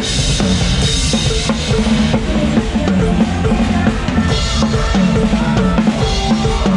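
Live band music with a drum kit up front: steady bass drum and snare hits with cymbals, under a melodic instrument line.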